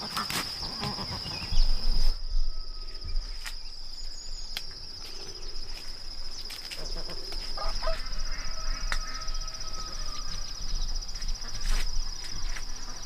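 Insects trilling: one steady, finely pulsing high tone that never lets up. Scattered short clicks and knocks sound over it.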